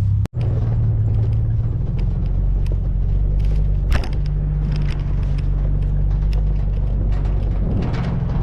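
Car driving along a road: a steady low engine and road drone with scattered light knocks and rattles. The sound drops out for an instant about a quarter second in.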